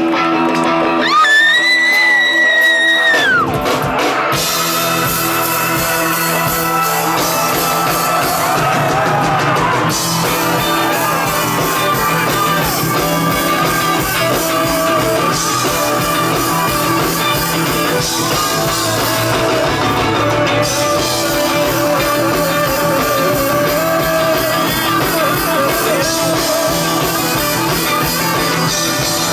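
Rock and roll music with singing, electric guitar and drums. A single high note is held for about two seconds near the start before the full band comes in.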